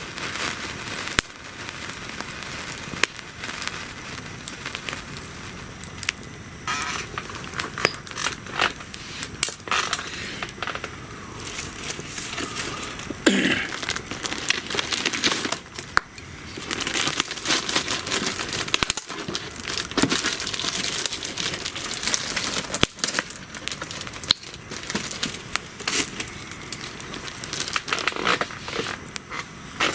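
Wood fire crackling and popping, an irregular run of sharp snaps with a few louder flurries.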